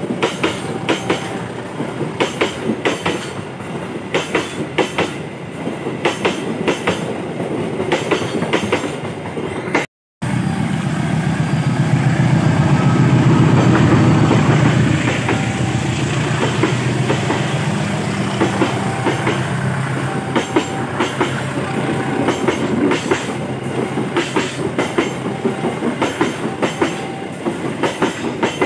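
Passing train, its wheels clicking over the rail joints in a fast, steady rhythm. About ten seconds in the sound briefly drops out, then a louder low rumble builds for a few seconds before the clicking takes over again.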